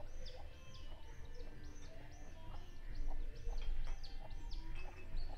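A songbird repeating a short, high, arched chirp over and over, about two or three times a second, over a low rumble that swells in the middle.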